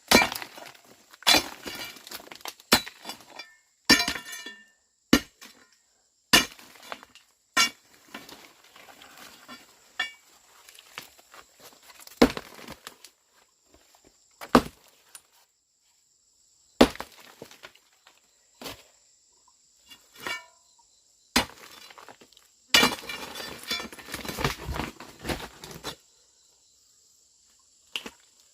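A series of sharp, irregular knocks and clinks of hard objects striking each other, some ringing briefly, with a faster run of knocking near the end.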